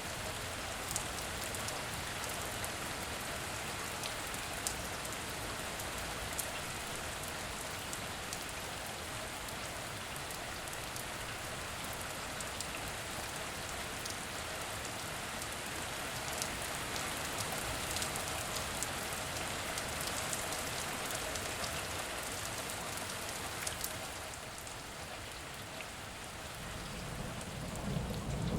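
Heavy rain falling steadily, with scattered sharp drop ticks, easing a little near the end as a rumble builds.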